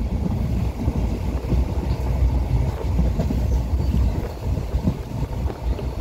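Passenger train running at speed, heard from inside the coach: a steady low rumble of wheels on the rails with constant rattling.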